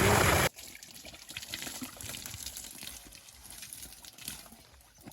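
Loud hiss of a water spray that cuts off suddenly about half a second in, followed by quiet trickling and dripping water.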